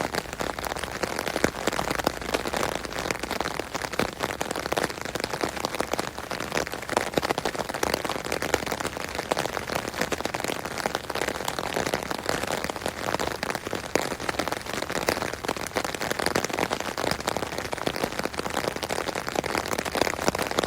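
Rain falling on an umbrella canopy: a dense, continuous patter of drops with no pauses.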